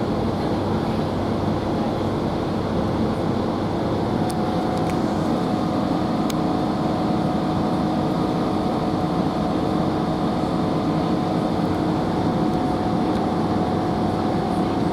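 Steady running noise inside a GWR Class 165 diesel multiple unit under way: the underfloor diesel engines and the train on the rails give a constant rumble with a steady hum, and a higher steady tone joins about four seconds in.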